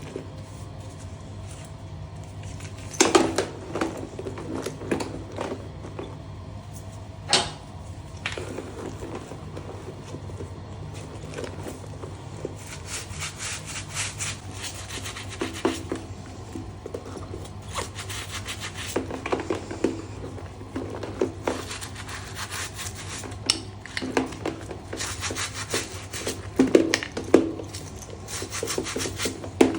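Hand-worked rubbing and scrubbing strokes on a leather bag, coming irregularly and in quick runs, with a few sharper strokes. A steady low hum runs underneath.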